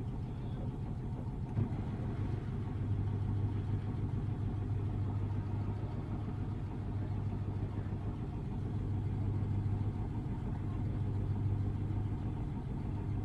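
Samsung Ecobubble washing machine with a digital inverter motor spinning its drum on an intermediate spin: a steady low hum whose level swells and eases gently. The load is running slightly imbalanced.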